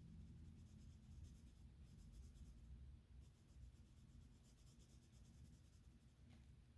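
Faint, quick back-and-forth coloring strokes on sketchbook paper in two runs, with a short pause about three seconds in. A single small tap comes near the end.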